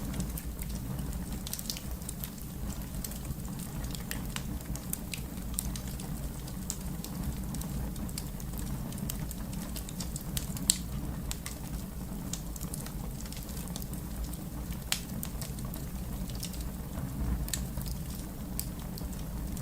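Fire crackling: irregular sharp pops and snaps over a steady low rumble of the flames, with one louder pop about eleven seconds in.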